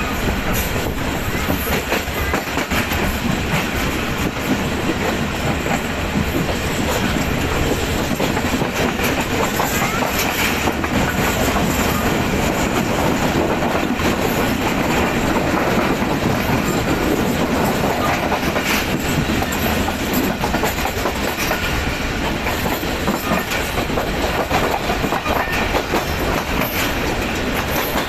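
Moving passenger train heard from an open coach window: the steady rumble and clickety-clack of the coaches' wheels on the rails, with a faint wheel squeal at times.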